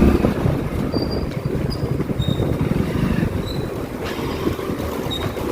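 Motorcycle engine running unevenly and dying down after the first moment, with wind rush on the microphone. The bike keeps stalling in the cold.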